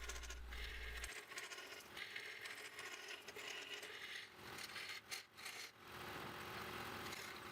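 Faint scraping and rattling of a turning tool cutting wood on the inside of a spinning workpiece on a lathe, with a few sharper chattering scrapes past the middle.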